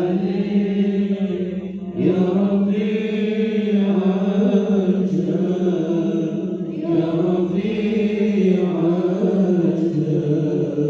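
A man's voice chanting long, held and ornamented melodic phrases, with a short break for breath about two seconds in before the next phrase.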